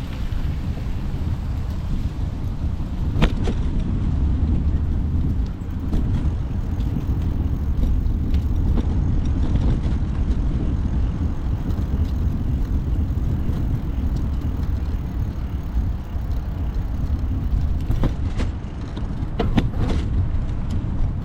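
Steady low rumble of wind and road noise while riding a bicycle, with a few sharp clicks about three seconds in and again near the end.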